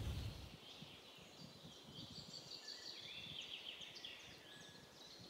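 Faint birdsong outdoors, a run of high chirps and short trills over a quiet background. A low rumble of wind on the microphone dies away in the first half second.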